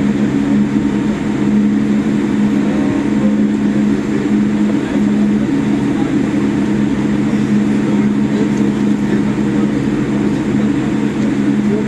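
Steady hum of a Boeing 787-8's cabin, a constant low drone of several held tones over an even rush of air noise.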